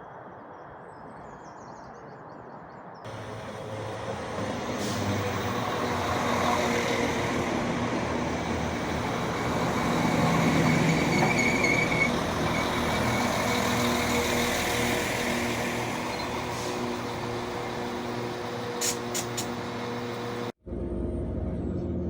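Passenger train running into the platform: a steady mechanical hum and rumble that builds, then eases off as it slows, with a brief high brake squeal near the middle.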